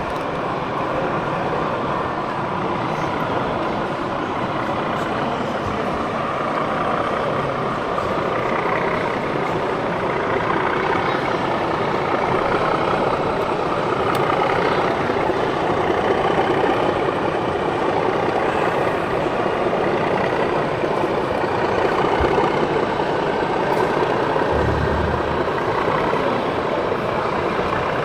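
Steady hubbub of a busy exhibition hall: many indistinct voices and general crowd noise blending together.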